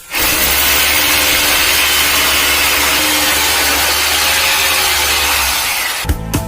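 Electric power tool motor running steadily: a loud rushing hiss over a low hum. It starts abruptly and cuts off about six seconds in.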